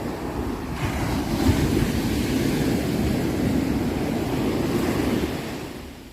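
Sea waves: a single wave swells in about a second in, washes loudly for several seconds, then fades away near the end.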